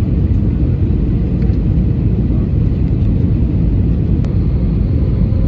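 Steady low rumble of an airliner's engines and airflow heard inside the passenger cabin on final approach.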